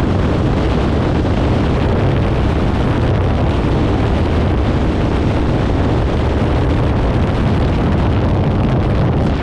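Kawasaki Ninja 500's parallel-twin engine running steadily through an aftermarket Leo Vince exhaust while riding, with wind noise on the microphone.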